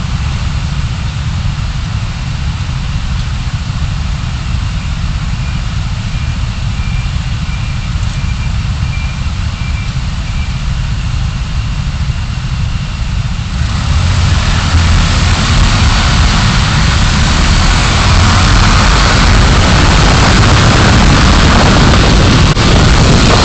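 Car driving, heard by the dashcam: a steady low rumble of engine and road. About 14 seconds in, a broad hiss rises and stays louder for the rest of the time.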